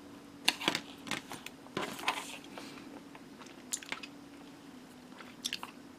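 Masking tape and small plastic model-kit parts being handled: irregular sharp clicks and crinkles, a few in the first two seconds and more near four and five and a half seconds in, over a faint steady hum.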